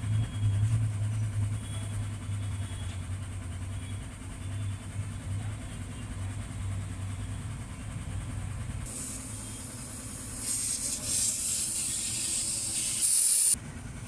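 A steady low mechanical hum. About nine seconds in, a loud hissing jet joins it, grows louder and cuts off sharply near the end.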